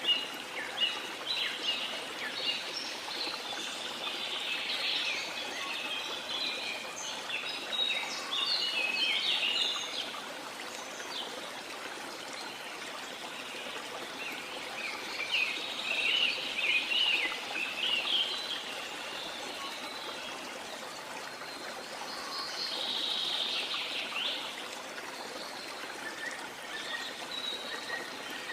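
Rainforest ambience: a steady wash of running water or rain, with birds chirping in bunches of quick high calls, busiest in the first third, again mid-way and near the end.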